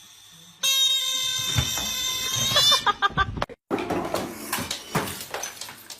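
An animal's long, steady, drawn-out cry lasting about two seconds, wavering as it ends. It is followed by a few clicks and knocks.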